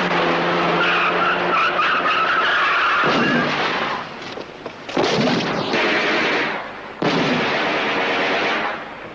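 Film-soundtrack car chase: a car engine running hard with tyres squealing for about three seconds, then sudden heavy noisy crashes about five and seven seconds in.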